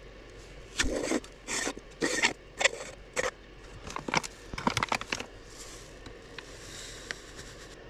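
Footsteps crunching through fresh deep snow, about two steps a second for roughly four seconds, then stopping.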